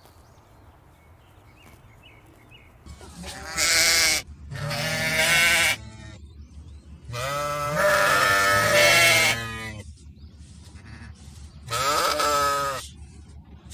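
Sheep bleating: four wavering baas after a few quiet seconds, the third one the longest.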